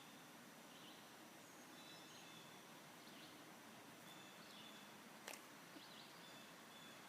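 Faint outdoor ambience with quiet, repeated bird calls: short high notes about once a second. A single sharp click comes about five seconds in.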